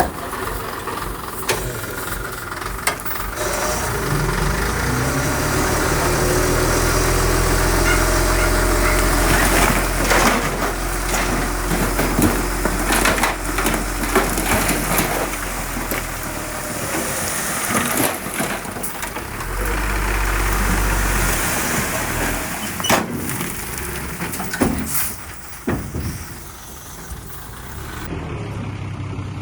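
A heavy construction machine's diesel engine revving up a few seconds in and working hard under load, with scattered metallic clanks and knocks. The engine eases off near the end.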